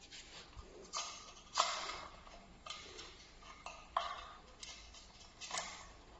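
Irregular clicks and short scrapes of tools and parts being handled during the disassembly of a rear wheel, about seven in all, the loudest about one and a half seconds in.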